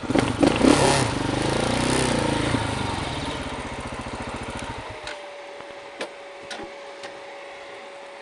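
Motorcycle engine running loud as the bike rides in, its pitch rising and falling, then settling and shut off abruptly about five seconds in. A few small clicks follow.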